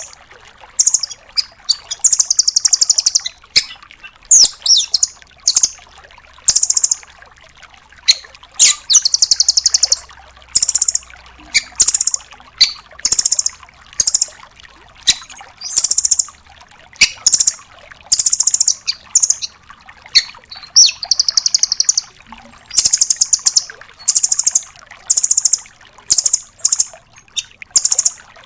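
Rambatan doraemon (a nuthatch) singing: bursts of rapid, high-pitched trills and sharp chip notes in quick succession, with barely a pause between them.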